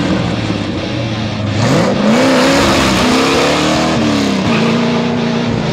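1965 Buick Riviera's engine revving under hard acceleration. It holds a low note at first, climbs from about two seconds in, rises and falls a few times, then holds a high steady note, over a constant rush of tyre and road noise.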